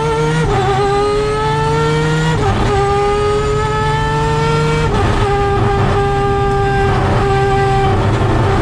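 Mazda RX7's peripheral-ported 20B three-rotor rotary engine at racing speed, heard from inside the car. Its note drops sharply at three upshifts, about half a second, two and a half and five seconds in, and climbs slowly between them. It then holds nearly level.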